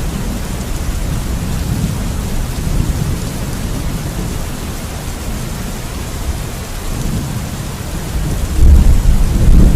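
Steady rain falling with low rolling thunder underneath; a louder rumble of thunder swells up near the end.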